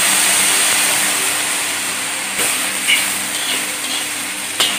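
Shredded banana stem and mustard paste sizzling steadily in oil in a kadai while a metal spatula stirs it, with a few sharp knocks and scrapes of the spatula against the pan.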